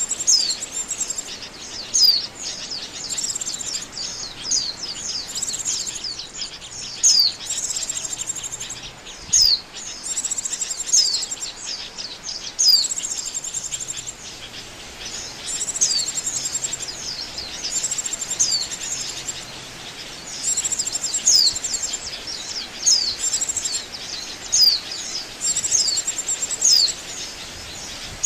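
White-eyes (pleci) calling as a lure call. High, sharp down-slurred chirps come one to two a second, mixed with short chattering phrases.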